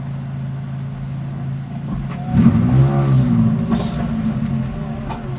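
Mazda Miata's four-cylinder engine idling, then revved hard about two seconds in as the car launches. The revs climb and drop back as the clutch takes up, and the engine keeps pulling.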